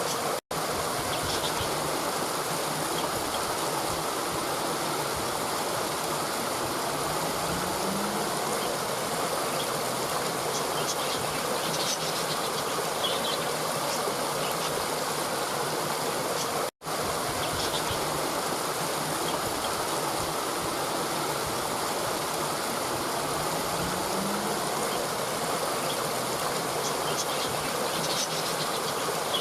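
Steady rushing water, like a stream or small waterfall, with faint, sparse bird chirps over it. The sound cuts out for an instant twice, about sixteen seconds apart, where the recording loops.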